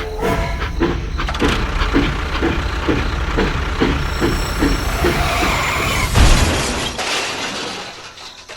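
Mechanical running noise with a regular knock about two to three times a second, a loud thump about six seconds in, then fading away.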